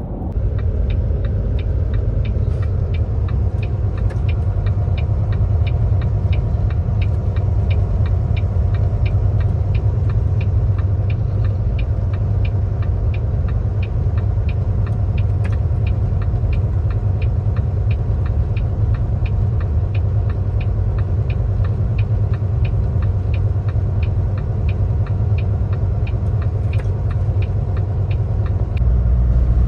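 Semi-truck engine and road rumble heard in the cab while driving at highway speed, steady and low, with a faint regular ticking about three times a second.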